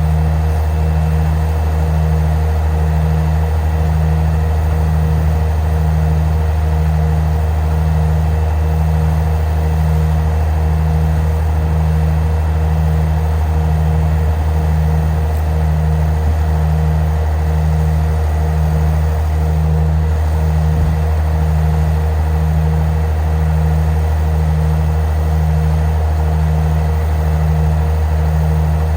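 A vehicle engine running at a steady speed: a loud, even deep drone with a low pulse about once a second.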